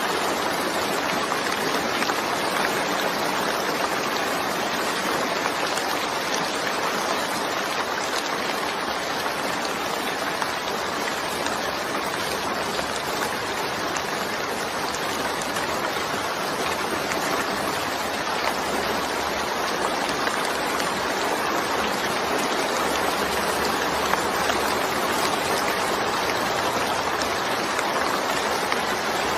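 Steady rainfall: an even, unbroken hiss of falling water at a constant level.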